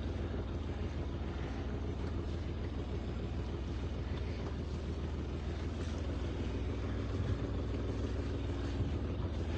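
Sailing yacht's inboard engine running steadily at low revs, an even low hum as the boat creeps slowly ahead.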